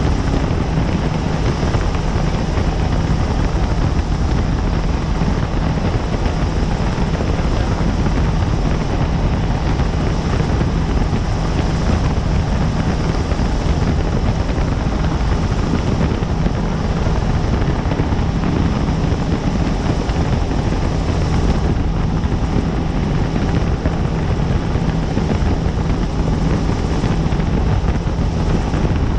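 Helicopter in flight, running steadily with a loud, unbroken drone.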